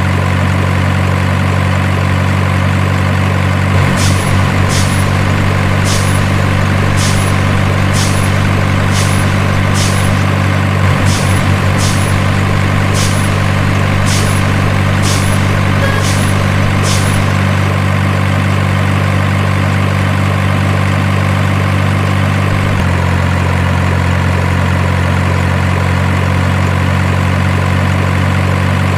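Truck engine sound idling steadily, as from an RC truck's engine sound module. About a dozen short sharp clicks sound between roughly four and seventeen seconds in. Near the end the engine note shifts slightly lower.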